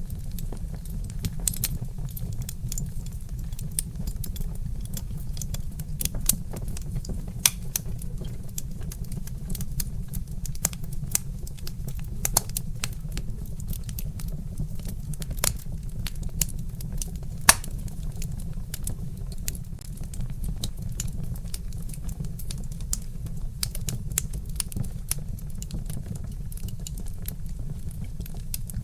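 Wood fire crackling: irregular sharp snaps and pops from burning logs, a few louder pops among them, over a steady low rumble of the flames.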